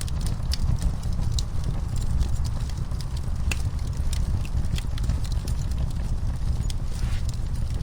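Wood fire in a fireplace crackling: a steady low rumble of burning, with frequent irregular sharp pops and snaps.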